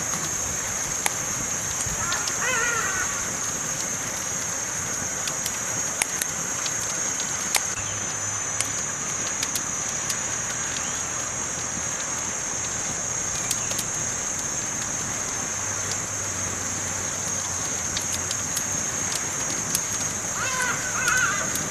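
Campfire burning: scattered sharp crackles and pops over a steady hiss. A short warbling call sounds about two and a half seconds in and again near the end.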